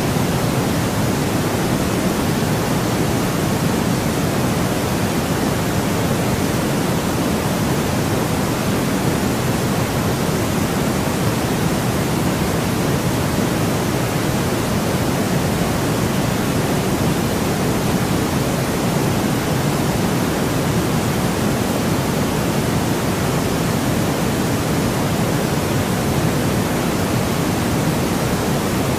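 Steady white noise: an even, unchanging hiss with most of its weight in the low range.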